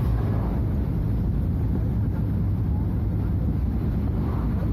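Scania F250HB bus's front-mounted DC09 nine-litre five-cylinder diesel engine running steadily, with no change in revs.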